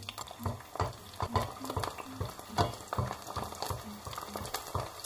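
Kerupuk crackers frying in hot oil, with irregular crackling and popping.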